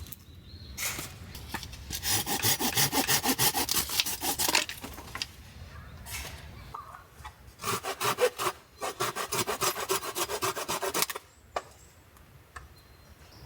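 Folding hand saw (Silky Gomboy) cutting through firewood in two bouts of quick, even back-and-forth strokes, with a short pause between them.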